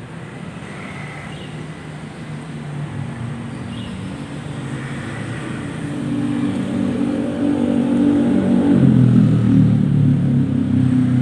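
Motor vehicle engine running and growing steadily louder, loudest in the last few seconds as it comes close.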